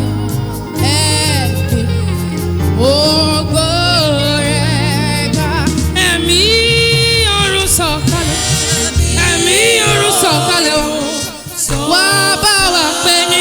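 Yoruba gospel worship song: a solo voice singing with vibrato over keyboard and bass accompaniment, with a brief dip in the music near the end.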